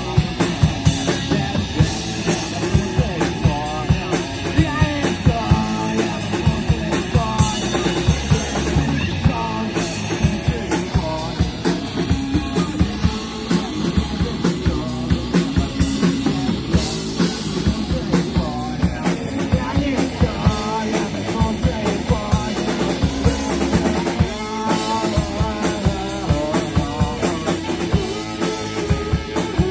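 Rock band playing live, with a full drum kit keeping a steady, driving beat under the guitars and bass.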